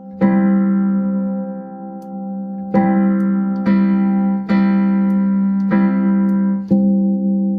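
Keyboard with a piano sound playing the same sustained chord, struck about six times, each ringing on until the next.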